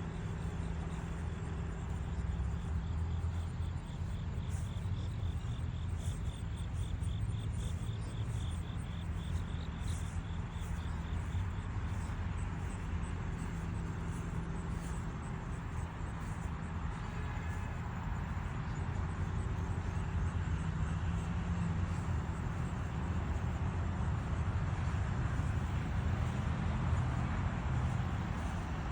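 Steady low rumble of motor traffic outdoors, with a fast, even, high-pitched ticking trill over it for roughly the first twelve seconds and a few short high chirps.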